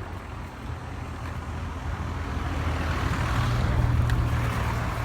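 A motor vehicle driving past: a low engine rumble with tyre and road noise that builds to its loudest about four seconds in, then begins to ease off.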